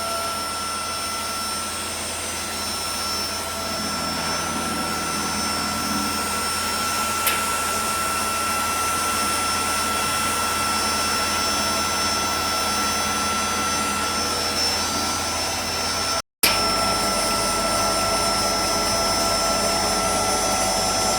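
Super-fine cocoa powder grinding and classifying mill running: a steady whir with a constant high whine, broken once by a brief dropout about two-thirds of the way through.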